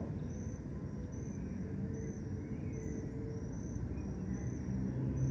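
A cricket chirping steadily, short high chirps a bit under two a second, over a low, steady rumble of distant city traffic.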